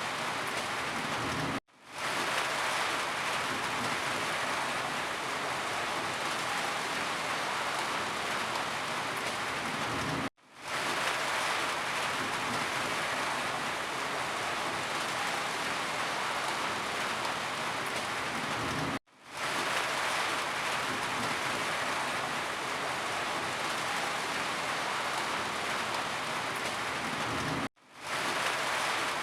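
Steady heavy rain, an even hiss of falling water. It cuts out abruptly to silence four times, about every nine seconds, and fades back in within half a second each time.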